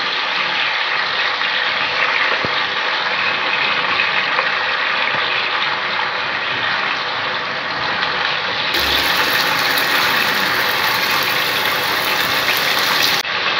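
Chicken pieces sizzling steadily as they fry in hot oil in a kadai.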